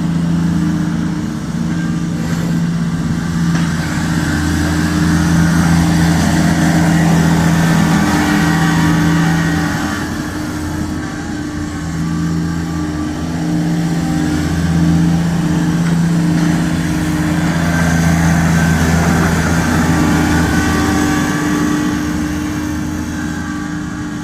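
Kubota tractor's diesel engine running steadily during snow plowing, its level swelling and easing several times as it works.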